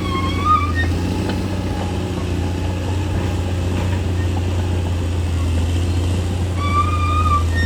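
Crawler bulldozer's diesel engine running steadily at work, with short high squeals near the start and again near the end.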